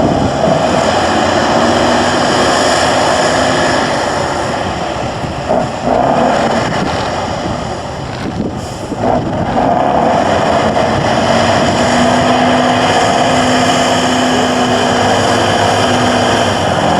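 Tatra 813 8x8 truck's air-cooled V12 diesel working hard off-road. It eases off for a few seconds near the middle, then pulls strongly again.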